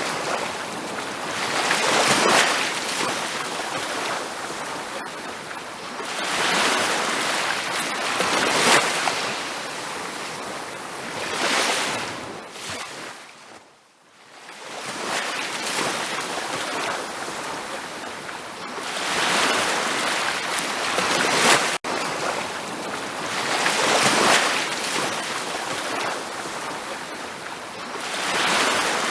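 Ocean waves washing onto a beach, the surf rushing in and easing off every few seconds. About halfway through the sound fades almost to nothing, then builds again, and there is a sudden brief cut-out later on.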